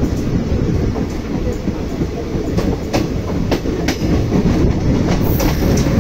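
Freight train wagons rolling past close by: a steady low rumble of steel wheels on rail, with a few sharp clacks as the wheels cross rail joints.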